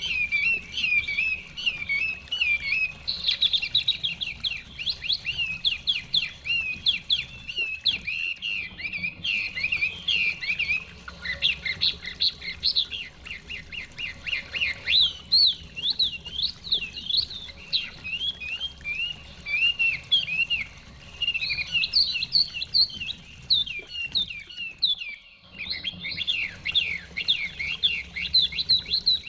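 Chinese hwamei singing a long run of loud, fast, varied whistled phrases that swoop up and down. The song breaks off briefly twice, about a third of the way in and near the end.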